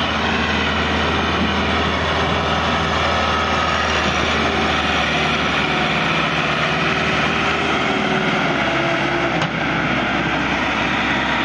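Massey Ferguson tractor's diesel engine running steadily while pulling a loaded trolley.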